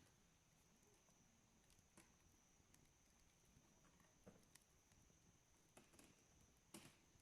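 Faint wood campfire crackling: a few scattered small pops and snaps of burning wood, the loudest near the end.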